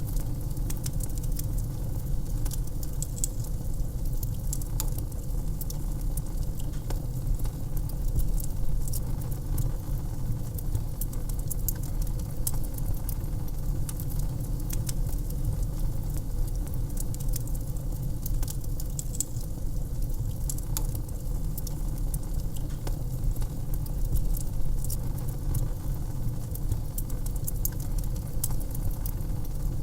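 Wood fire crackling in a fireplace: frequent, irregular sharp snaps and pops over a steady low rumble of the flames.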